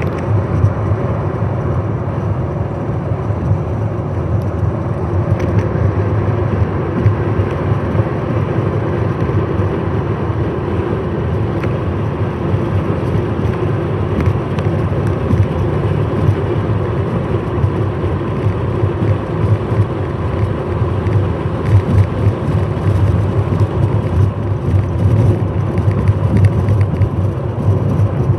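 Idling diesel locomotive of a waiting train: a steady low rumble with faint steady engine tones above it.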